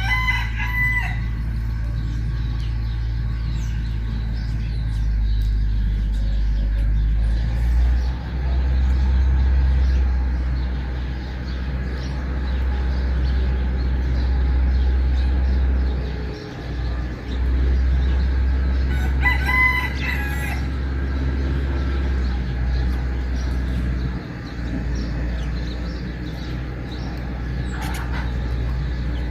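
Two loud bird calls, each about a second long with a clear ringing pitch, one right at the start and one about twenty seconds in, over a steady low rumble and faint scattered chirps.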